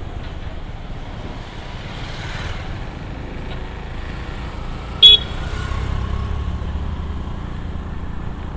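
Street traffic with a vehicle engine rumbling, and one short, loud horn toot about five seconds in.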